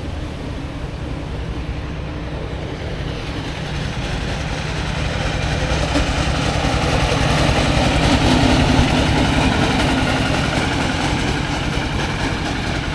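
Train rumbling through the station, the noise swelling to a peak a little past the middle and then easing off.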